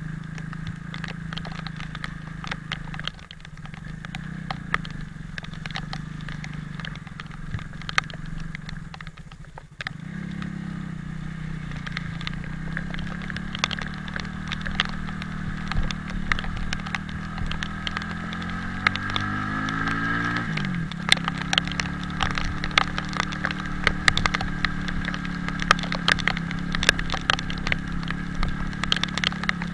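Italika 250Z motorcycle engine running while riding, dipping briefly twice, then revving up for a few seconds and dropping suddenly about twenty seconds in, as on a gear change. Many sharp ticks of rain hitting the microphone.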